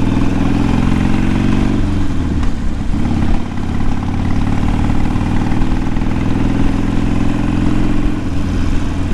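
Harley-Davidson Sportster's V-twin engine running loud on the move. The note drops and wavers about two seconds in, then settles back to a steady pull.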